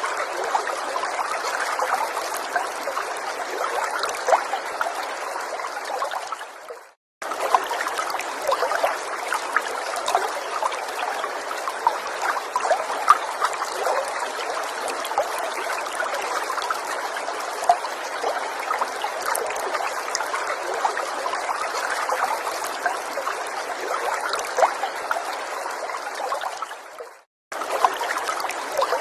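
A small forest stream trickling and splashing steadily over stones, full of fine droplet ticks. It fades out to a moment of silence and cuts back in twice, about seven seconds in and near the end.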